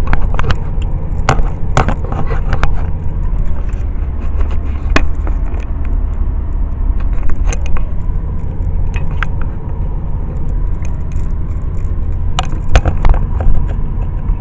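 Steady low rumble of a car's engine and road noise heard from inside the cabin while driving, with scattered clicks and knocks.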